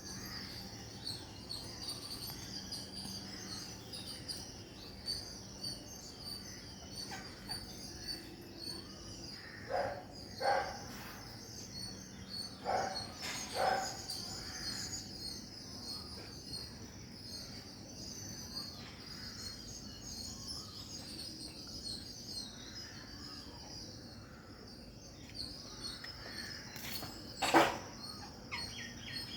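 Outdoor nature ambience: a steady chorus of rapid high-pitched chirping. Over it, louder animal calls come in two pairs about ten and thirteen seconds in, and one loudest call sounds near the end.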